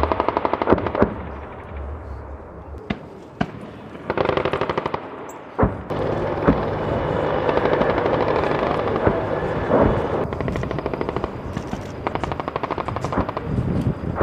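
Automatic weapons firing in several rapid bursts, with single sharp shots between them.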